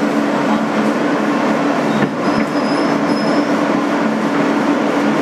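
Interior noise of a 2008 Kawasaki R160B subway car: a steady rumble with two held low tones, and a faint high whistle briefly about halfway through.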